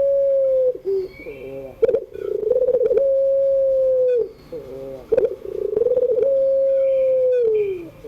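Puter pelung, a domestic ring-necked dove bred for a long coo, cooing over and over. Each coo opens with a rolling, wavering part and ends in a long held note, about every two and a half seconds; the last note slides down at its end. Faint chirps of small birds sound in the background.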